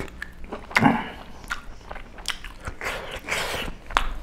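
Close-miked chewing of a mouthful of food, with wet lip smacks and clicks of the mouth and a short murmur about a second in.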